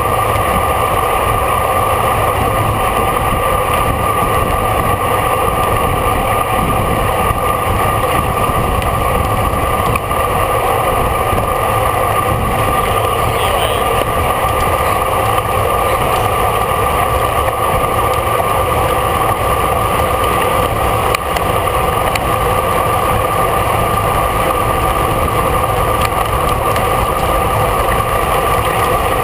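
Steady rush of wind and road noise on a camera riding on a bicycle at race speed, with a constant hum in it.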